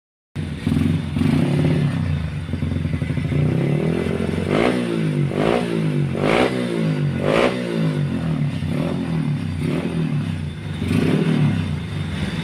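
Yamaha Jupiter motorcycle engine running through a hollowed-out (gutted) muffler. It is blipped four times in quick succession about four to seven seconds in, then settles and swells again near the end.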